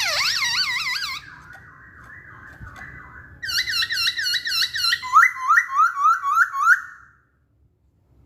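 Poksay Hongkong laughingthrush singing: loud whistled notes repeated in quick siren-like series of about five a second, with a softer warble between the phrases. The song breaks off about seven seconds in.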